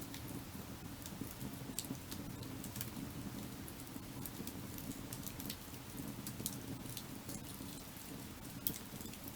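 Wood fire burning: irregular sharp crackles and snaps over a steady low rushing sound.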